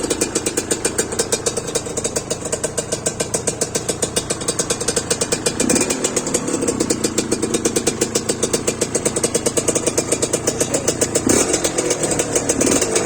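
Memnun TS250E motorcycle engine running with a steady, fast-pulsing exhaust. The throttle is blipped, raising the engine's note, about halfway through and again near the end.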